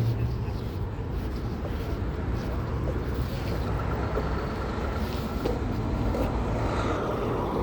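Car engines running, a steady low rumble with a faint steady whine joining about halfway through.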